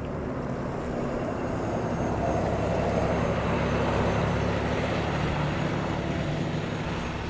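A motor vehicle passing by, its low engine hum and tyre noise swelling to a peak about midway, then fading.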